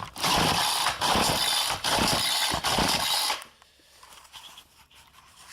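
Cold Poulan Pro two-stroke string trimmer being pull-started: four quick, rasping strokes of the recoil starter over about three seconds, then it stops without the engine running.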